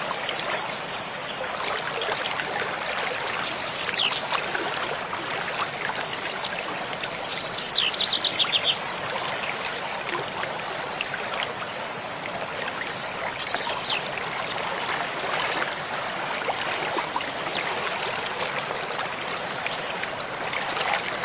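Mountain stream flowing steadily, with a songbird singing short trilled, sweeping phrases three times in the first half.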